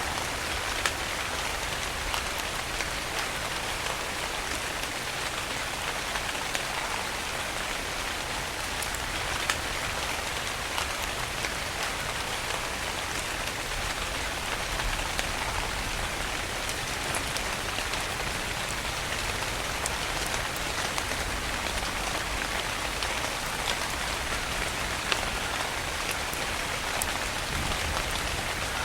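Steady rain falling in an even hiss, with a few sharper single drops standing out now and then.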